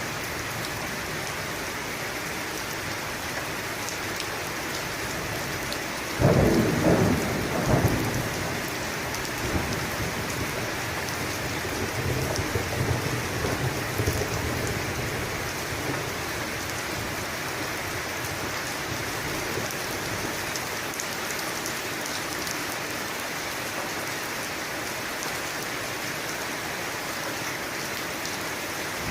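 Steady heavy rain with a clap of thunder about six seconds in, a sharp crack followed by a rumble that rolls on for several seconds and fades back into the rain.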